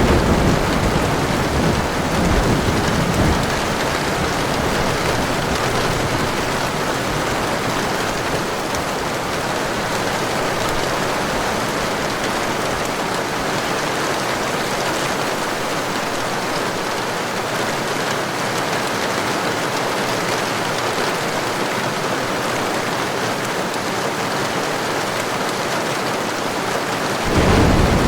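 Heavy rain falling steadily, a constant hiss. A rumble of thunder dies away over the first few seconds, and another roll of thunder starts near the end.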